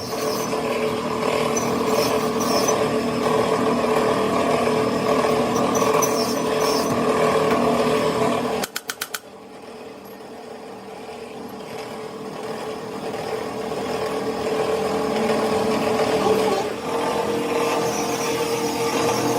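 A small electric motor, likely a workshop power tool, running steadily with a constant hum. It cuts out with a few quick clicks about nine seconds in, then gradually builds back up to a steady run.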